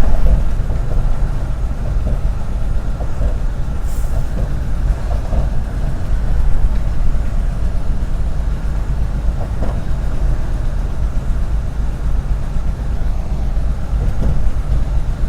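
Semi-truck under way: a loud, steady low rumble of engine and road noise.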